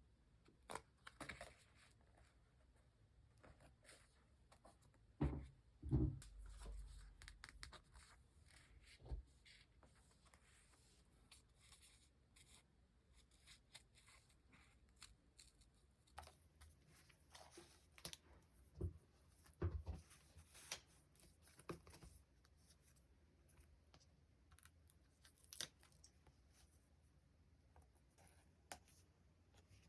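Paper and stickers being handled during journal decorating: scattered soft peeling, tearing and tapping sounds, with a few louder knocks about five seconds in and again around twenty seconds.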